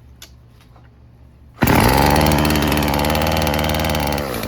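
Stihl FS36 string trimmer's two-stroke engine starting suddenly about a second and a half in and running steadily, then dropping to a lower idle near the end. It runs and idles with its low-speed mixture screw freshly set to one and a half turns out, after running rich.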